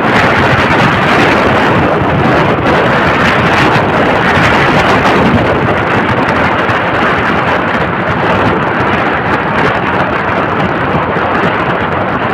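Wind rushing over the microphone on a moving motorcycle taxi, a loud steady roar of air and road noise with no clear engine note standing out.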